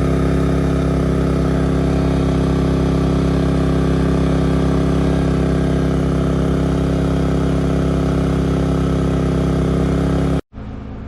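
WEN 3600-watt portable generator engine running steadily under about half load while powering an air conditioner. Near the end the sound cuts out for a moment and comes back quieter.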